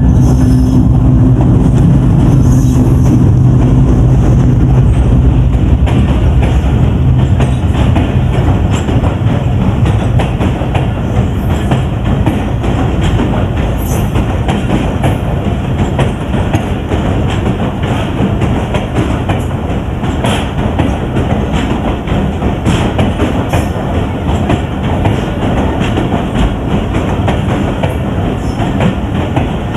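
Passenger train under way: a steady rumble with wheels clicking over the rail joints, with a low steady hum in the first several seconds.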